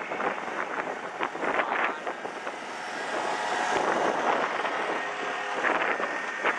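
2003 Ford F-150 Lightning's supercharged V8 running at the drag strip, with its catalytic converters removed. The engine noise swells and eases, with a faint steady whine and a few sharp pops and cracks.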